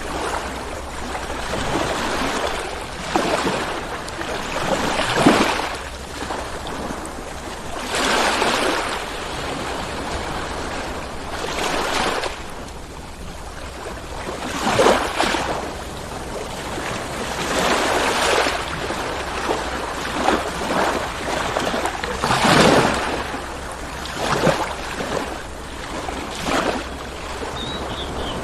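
Ocean surf: waves breaking and washing in, one surge of noise after another every few seconds, over a steady low rumble.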